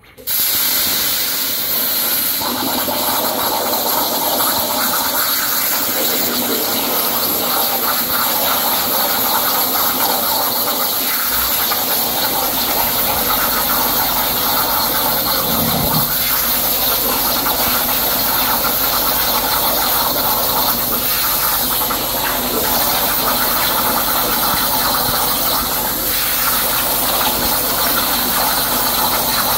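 CNC plasma cutter's torch cutting 3/4-inch steel plate at 85 amps: the arc fires suddenly just after the start and then runs as a loud, steady hiss.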